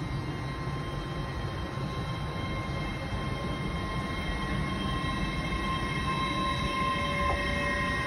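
An LNER Azuma (Hitachi Class 800-series) passenger train running past: a steady rumble of wheels on the rails with a high whine of several steady tones, growing louder towards the end.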